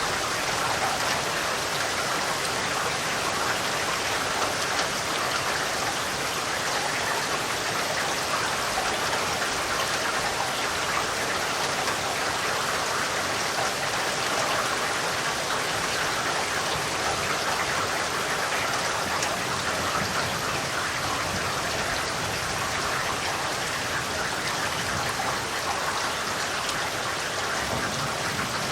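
Steady rain falling, a dense even patter of drops on surfaces with no thunder.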